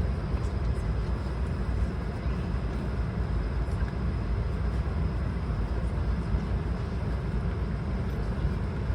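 Steady cabin noise inside an Airbus A220 airliner: a low rumble with an airy hiss over it and a faint high whine.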